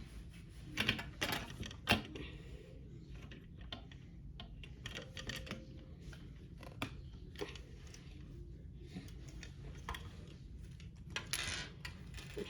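Small plastic construction-kit parts clicking and clattering as they are handled and fitted together by hand, in scattered sharp clicks with a short rustle near the end.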